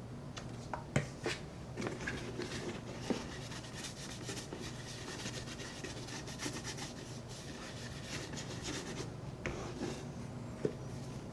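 Leather of a Red Wing 8080 boot being rubbed and scrubbed during cleaning with shoe cleaner: a run of quick scratchy strokes, with a few sharp taps near the start and one near the end.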